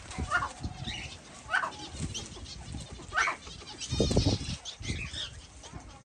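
A pet bird bathing in the rain gives short rising calls, one about every second and a half, over higher chirping. About four seconds in there is a flurry of low thuds from wings flapping.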